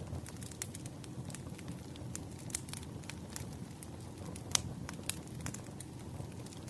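Wood fire burning: logs crackling with irregular sharp pops over a steady low rumble of flame, one pop about four and a half seconds in louder than the rest.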